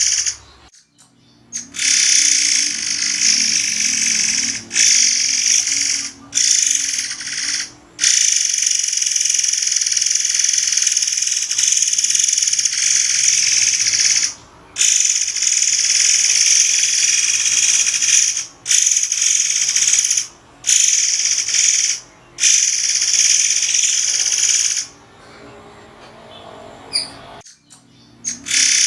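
Murai air songbird singing loud, sharp, high-pitched song in long stretches of a few seconds, broken by short pauses, with a quieter lull near the end.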